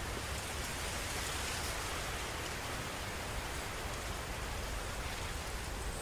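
Steady rain falling on water, an even hiss of drops with a low rumble underneath.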